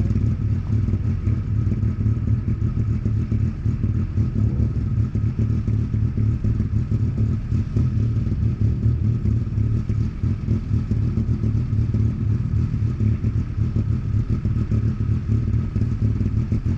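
Car engine idling steadily with a low rumble and a faint steady whine above it.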